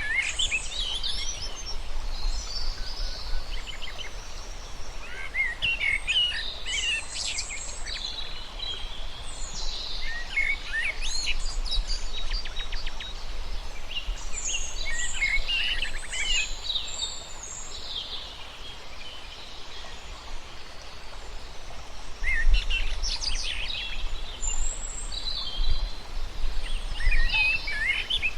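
Songbirds singing in short, chirping phrases that come every few seconds, over a steady low rumble of outdoor background noise.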